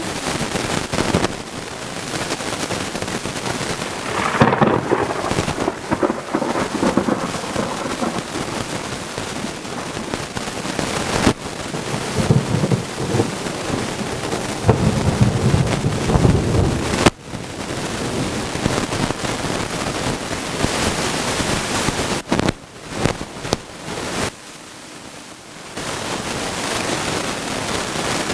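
Thunderstorm: steady heavy rain hissing, with thunder rumbling twice, first about four seconds in and again around the middle, before easing briefly near the end.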